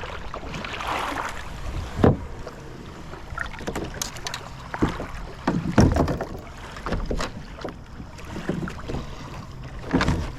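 Kayak on the water in strong wind: irregular knocks and splashes every second or two, over a steady low rumble of wind on the microphone.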